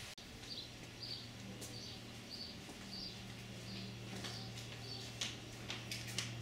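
A small bird chirping over and over, about one short high chirp every two-thirds of a second, over a steady low hum. A few sharp clicks come near the end.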